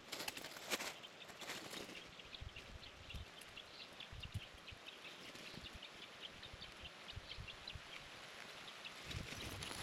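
Faint outdoor ambience: small birds chirping in short repeated notes, with scattered low thumps and rustling like footsteps through leaf litter.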